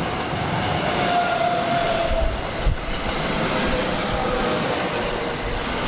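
JR West suburban electric multiple-unit train running past close by, its wheels rolling on the rails with thin high-pitched squeal over the rumble, and a single low thump about halfway through.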